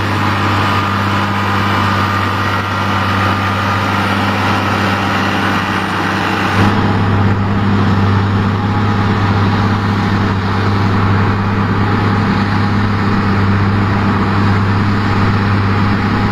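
New Holland TG285 tractor's diesel engine running steadily with a low hum. A faint high whine sits over it at first. About seven seconds in the sound changes suddenly: the whine and upper hiss fall away and the low hum gets stronger.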